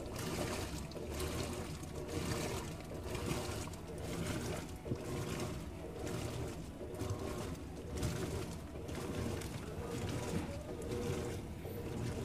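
Mabe LMH70201WBABO 20 kg top-load washer mid wash cycle: water and clothes sloshing and churning in the tub, swelling and fading in a regular rhythm.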